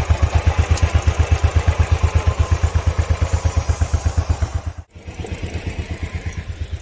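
Motorcycle engine idling, an even low pulsing of about ten beats a second. About five seconds in the sound cuts off abruptly and then resumes, quieter.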